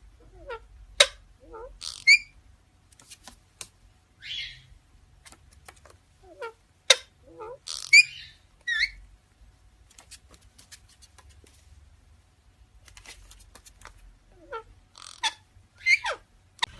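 A parrot's short chirping call, with quick falling whistles and sharp clicks, repeated three times about every seven seconds.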